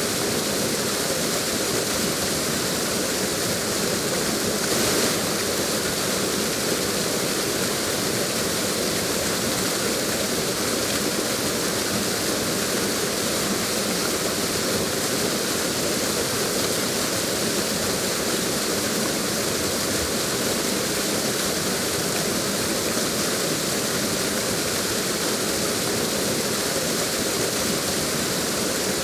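Steady rush of flowing water, as from a waterfall in a forest river, with a slight swell about five seconds in.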